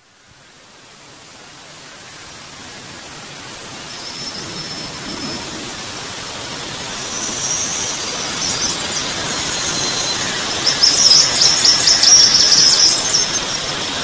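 Birds chirping over a steady outdoor hiss that fades in from silence at the start. High twittering calls begin about four seconds in and are busiest and loudest near the end.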